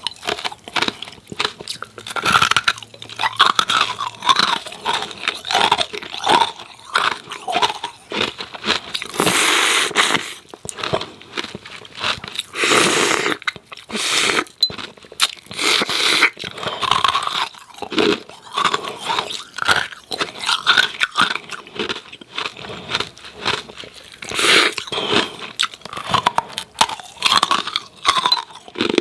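Hard ice cubes with a coating of freezer frost being bitten and chewed up close, a dense run of loud, brittle crunches with a few heavier bursts as fresh bites break.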